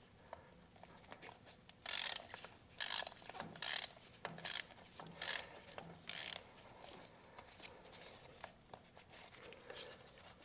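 Ratchet wrench clicking in about six short strokes, a little under a second apart, working a fitting on a tractor's fuel filter.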